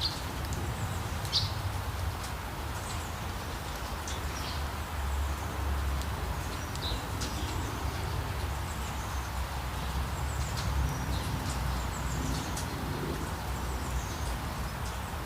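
Steady hiss of rain with short, high bird chirps scattered throughout, over a low rumble.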